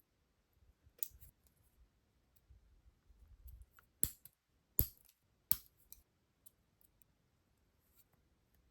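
Small hand cutters snipping plastic model-kit parts: a snip about a second in, then three sharp snips about 0.7 s apart a little past the middle, with a few faint clicks of handling between.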